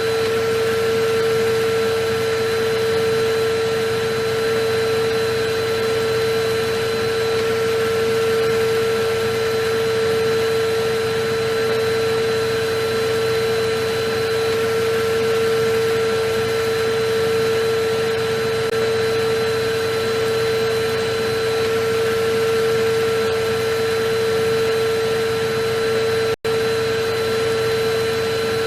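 Electric vacuum cleaner running steadily: a constant rushing of air with a high, steady motor whine on top. It cuts out for a split second once near the end.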